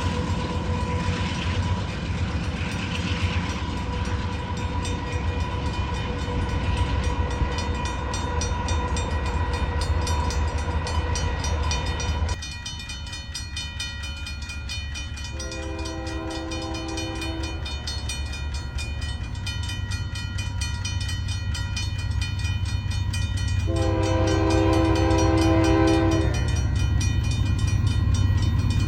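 Diesel train running with a steady low rumble, which drops abruptly to a quieter rumble about twelve seconds in. Later a locomotive's multi-chime air horn sounds two long blasts of about two seconds each, several seconds apart.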